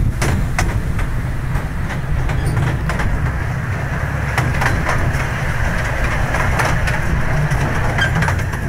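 Miniature park train riding along its track: a steady low rumble from the wheels, with scattered clicks and clacks of the wheels on the rails.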